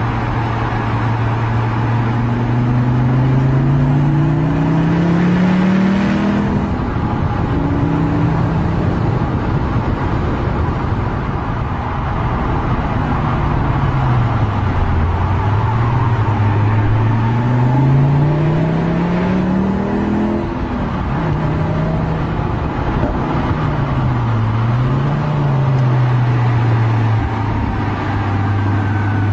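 Car engine under way, its pitch climbing as it accelerates and then dropping back sharply, twice, over steady road and tyre noise.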